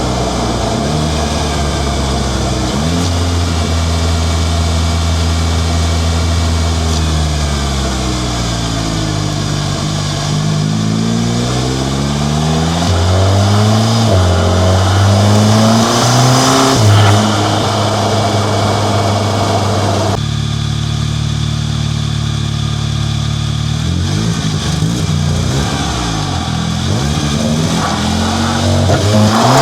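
Volkswagen Golf GTI Mk7's turbocharged 2.0-litre four-cylinder engine, fitted with an ARM 4.5-inch downpipe, heard up close from the engine bay while driving. The engine note falls and rises several times as it revs and shifts, with an abrupt change about twenty seconds in.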